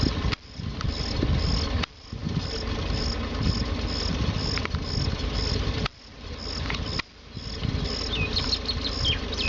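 Low steady rumble of a tractor engine running, with crickets chirping in a regular pulse about twice a second and a few bird chirps near the end. The sound cuts out abruptly several times, briefly dropping in level.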